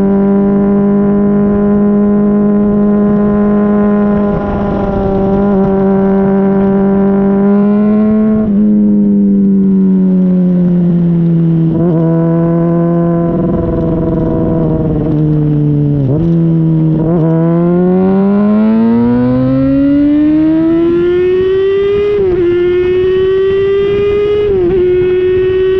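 Honda CBR600RR inline-four engine running through a Yoshimura RS-5 exhaust under way: a steady note that slowly falls, then rises steadily as the bike accelerates, with brief dips near the end. Wind rumbles on the microphone underneath.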